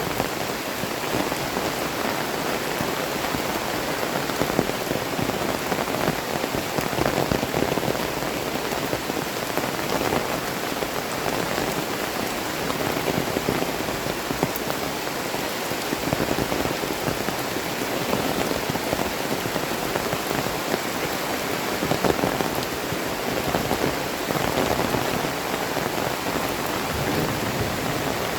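Heavy tropical rain pouring down steadily, a dense even hiss with scattered drops pattering close by.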